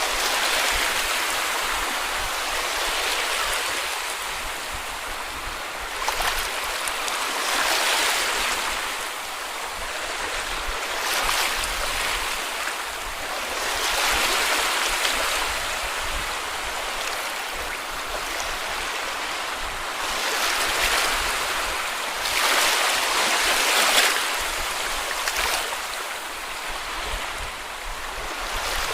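Small sea waves washing onto a beach, a steady hiss of water that swells and eases every few seconds as each wave breaks and runs up.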